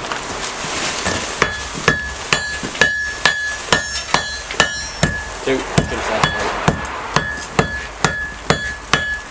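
Hand hammer blows on a hot bog iron bloom on an anvil, a steady run of about two strikes a second, many with a short metallic ring, as the bloom is consolidated and refined.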